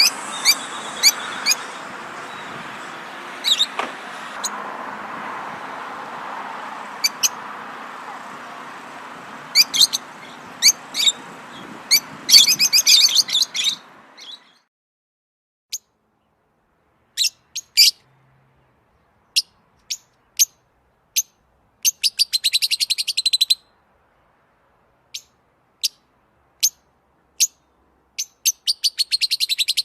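Songbirds chirping: short, high single chirps and several rapid trilled phrases. Over the first half a steady background noise runs under them and cuts off suddenly about halfway through, leaving the chirps and trills against silence.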